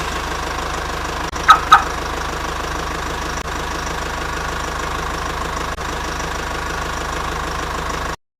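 Car engine running steadily, with two short horn beeps about a second and a half in; the engine cuts off suddenly just before the end.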